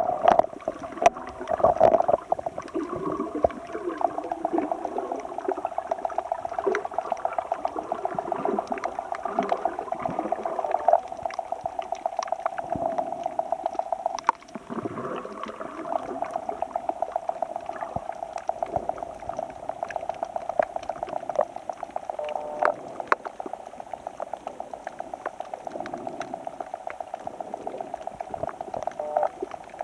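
Shallow seawater bubbling and gurgling, with a rapid, even pulsing throughout and a few louder splashes in the first seconds.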